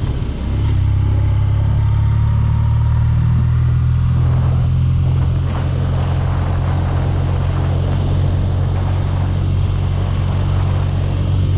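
BMW R nineT Urban G/S's boxer twin engine running at a steady cruise, a constant low rumble that dips briefly just after the start.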